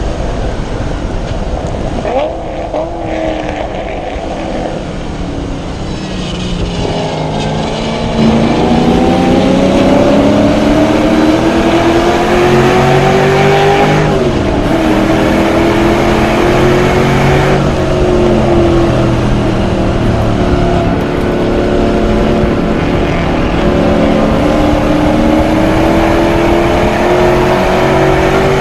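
The LS1 V8 of a BMW E30 race car being driven hard on track. The engine is lighter for the first several seconds, then goes to full throttle about eight seconds in and climbs in pitch. It drops sharply at an upshift and pulls up again, easing off and climbing once more near the end.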